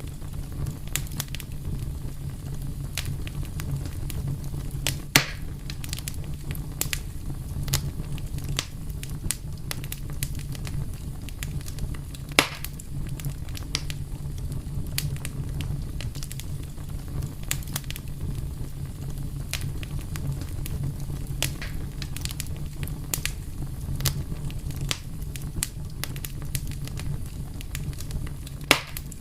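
Fire crackling over a steady low rumble, with many scattered sharp pops; three stand out louder, about five seconds in, about twelve seconds in, and near the end.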